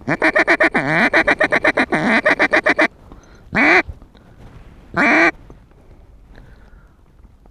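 Mallard duck call blown close by, in a hen-mallard voice: a fast chatter of about nine short quacks a second for nearly three seconds, then two single, longer quacks about a second and a half apart.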